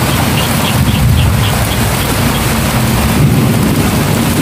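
Steady rain falling, a loud even rush that is heaviest in the low end. A few faint high chirps sound in the first second and a half.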